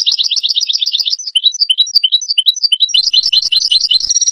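European goldfinch singing: a fast twittering run of rapidly repeated notes, a stretch of slower, more spaced notes in the middle, then quick notes again and a higher buzzy held note near the end.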